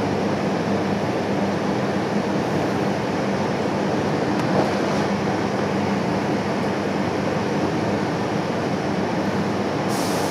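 Steady running noise of a passenger train at speed, heard inside the carriage, with a constant low hum underneath.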